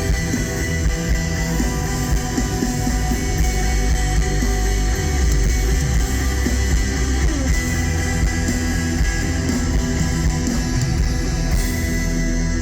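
A live rock band playing, with electric guitar to the fore over a heavy bass and drum low end.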